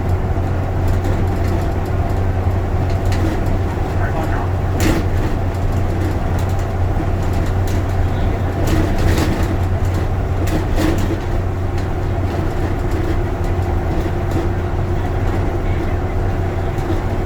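A moving bus heard from inside the cabin: a steady low engine and road drone, with scattered short rattles and clicks.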